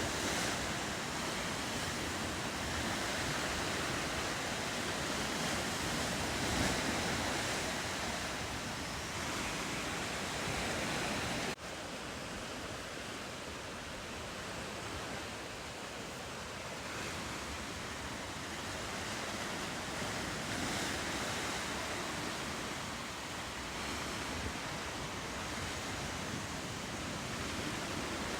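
Ocean surf and wind making a steady rushing noise. A little less than halfway through it drops abruptly and then carries on slightly quieter.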